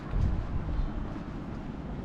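Strong wind buffeting the microphone as a low, uneven rumble, with a stronger gust in the first second.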